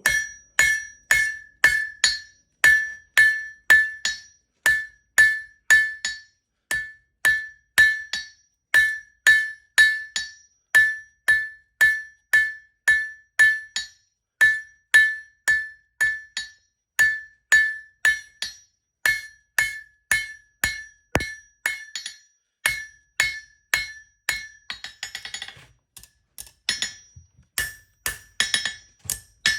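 Blacksmith's hand hammer striking hot steel over the anvil horn at a steady pace of about two blows a second, each blow ringing brightly off the anvil: drawing out the stem of a forged leaf to make it longer. The rhythm breaks briefly near the middle and again about five seconds before the end.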